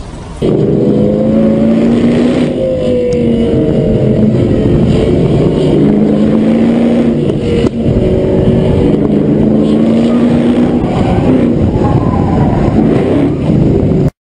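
Car engine running loud, its pitch rising and falling as it revs. It starts suddenly about half a second in and cuts off abruptly at the end.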